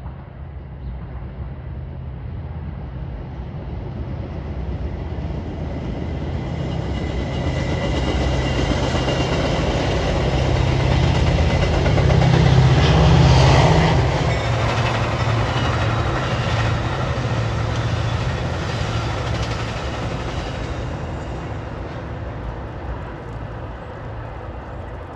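Train passing by, growing steadily louder to a peak about halfway through, then fading away, with a steady low engine drone under it.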